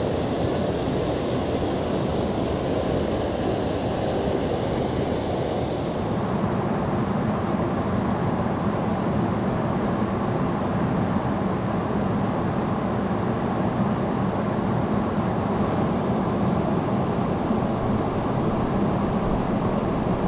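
Steady rush of river water pouring over small rocky rapids below a lake spillway. About six seconds in the sound shifts to less hiss and more low rumble.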